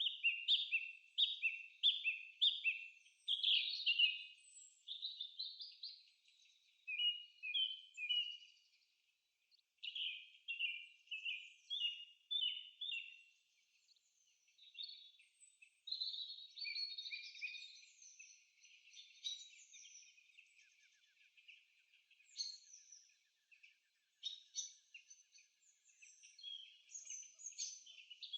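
Bird song: runs of quick repeated falling notes, about two a second, broken by short pauses, giving way after the middle to a busier jumble of chirps and twitters.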